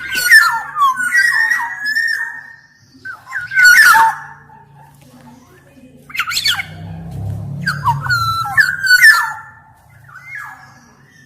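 Black-naped oriole singing: about five bursts of quick whistled and sweeping notes separated by short pauses, the longest burst at the start and another between about seven and nine seconds in.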